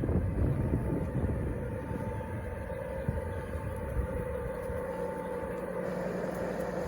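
G scale model train running, a steady hum with a low rumble underneath.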